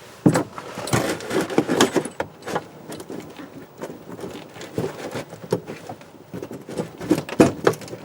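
Irregular clicks and light metallic clanks from the brake pedal and aftermarket parking-brake latch of a Polaris RZR 800 being pressed and set, many in quick succession; the latch still goes on hard.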